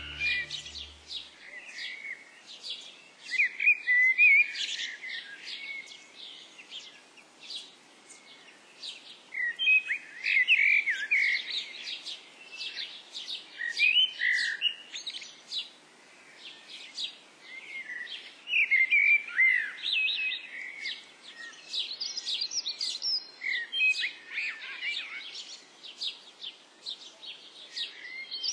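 Small birds chirping and singing in quick trilling bursts that come every few seconds.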